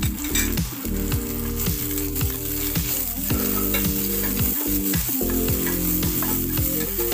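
Ginger strips and chopped garlic sizzling in hot oil in a stainless steel pot, stirred with a wooden spatula. Background music plays underneath.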